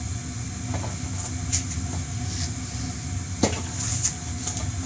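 Steady low background hum with a few light knocks and clicks as a motorcycle tire and wheel rim are handled, the sharpest knock about three and a half seconds in.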